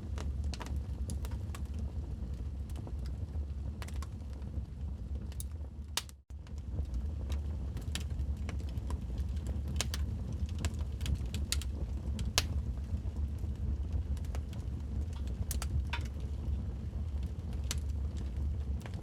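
Logs burning in a fireplace: a wood fire crackling, with frequent sharp pops over a steady low rumble. The sound drops out for a split second about six seconds in.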